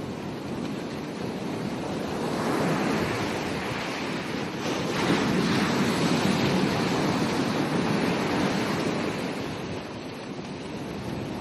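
Ocean waves breaking on a beach. The surf swells twice, about two seconds in and more loudly about five seconds in, then settles back, with some wind on the microphone.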